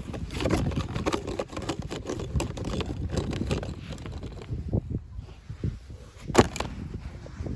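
Handled toy packaging rustling and crackling in irregular bursts, with one loud sharp click about six and a half seconds in.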